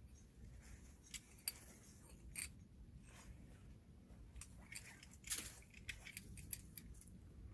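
Faint, scattered metallic clicks and short scrapes of climbing hardware such as carabiners being handled, with a longer, louder scrape about five seconds in.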